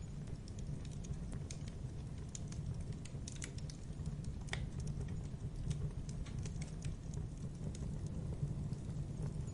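Wood fire crackling, with irregular sharp snaps and pops over a low, steady rumble of the flames.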